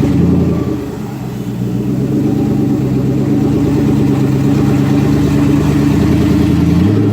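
Twin-turbocharged Ford Coyote 5.0 V8 running on a chassis dyno. Its revs and loudness dip about a second in, then build back up and hold.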